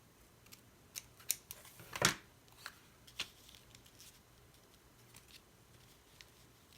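Scissors snipping paper: a quick run of short cuts in the first half, then a few fainter snips, as a torn paper leaf is trimmed to shape.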